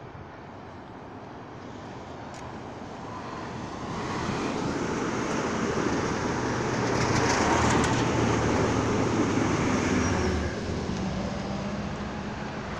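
Amtrak Talgo passenger train approaching and running beneath, its wheel-on-rail rumble building steadily to its loudest about two-thirds of the way in. A low steady hum joins in as it passes. The noise then eases as the train moves away.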